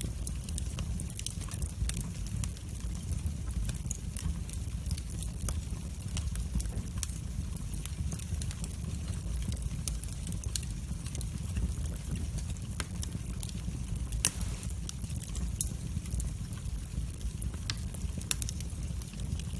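Wood fire crackling in a fireplace: a steady low rumble of the flames under frequent small sharp crackles and pops, with one louder pop about three-quarters of the way through.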